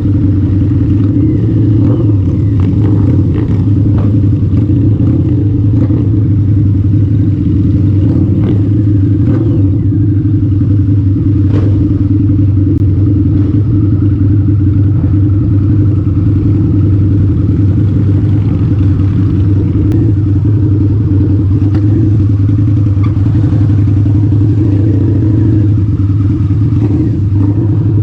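Harley-Davidson V-Rod motorcycle's V-twin engine running at steady revs while riding, a constant low drone that holds one pitch throughout.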